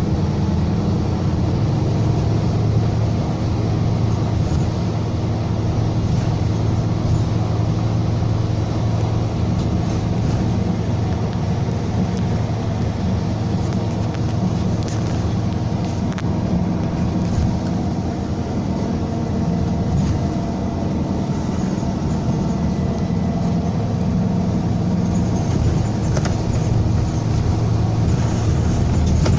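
Scania K320 coach's 9.3-litre DC9 five-cylinder diesel running steadily under way, a continuous low engine note at an even level.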